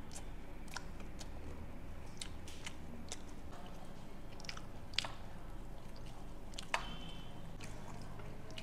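Eating a cornflake-coated fish finger: chewing, and the crisp crust crackling in small scattered crunches as it is bitten and pulled apart by hand. There are two sharper clicks, about five and seven seconds in.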